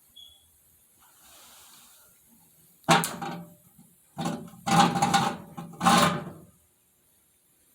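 Hard objects being handled during work on a boiler: three loud clattering knocks with a brief ring, the first about three seconds in and the last about six seconds in, after a faint rustle.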